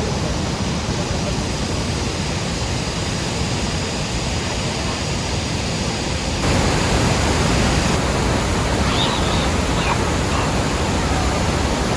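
Waterfall: a steady rush of falling water. About halfway through the sound jumps abruptly louder and brighter, as at a cut to a closer or different part of the falls.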